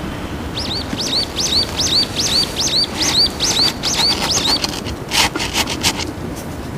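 A bird calling a quick series of chirps, each a rising-and-falling note followed by a lower one, about two and a half a second for some four seconds. Then come short rattling bursts as small gravel is tipped from a plastic scoop onto the soil of a potted succulent.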